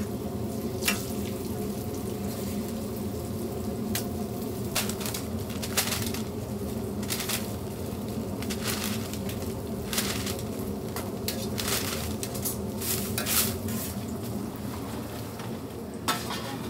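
Hotteok frying in oil on a flat griddle, sizzling, with frequent sharp clicks and clatters of metal tongs and a hotteok press against the griddle. A steady low hum runs underneath.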